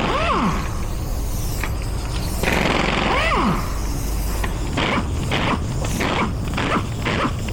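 Power wrench loosening cylinder head bolts in short trigger bursts. Twice its motor whirs up and winds back down, then it pulses in quick short bursts, about two or three a second.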